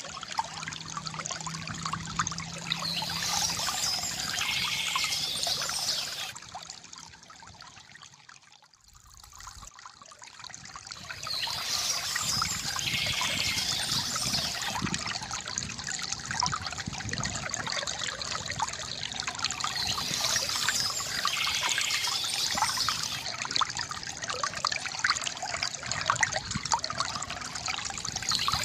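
Water trickling and pouring steadily from a bamboo fountain spout, with a splashing hiss. It fades down almost to nothing about eight seconds in, then comes back up.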